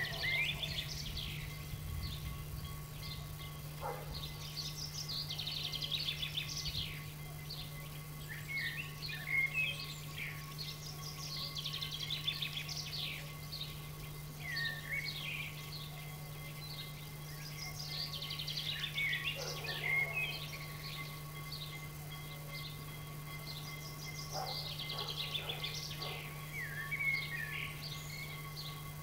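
A songbird singing in repeated chirping phrases, a new phrase about every six seconds, over a faint steady low hum.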